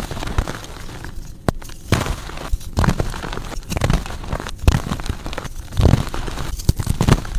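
Blocks of powdery gym chalk being crushed and crumbled, a run of soft crunches and crackles a few times a second with sharper snaps here and there.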